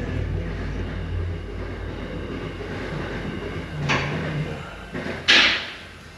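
Two sharp knocks over a low steady hum, the second louder, about four and five seconds in.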